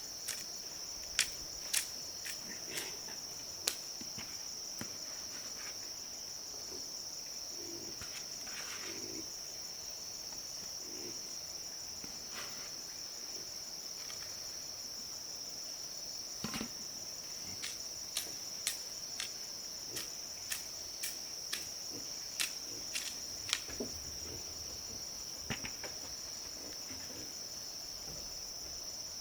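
Steady, high-pitched insect chorus, with scattered sharp clicks and knocks, a few near the start and more in the second half.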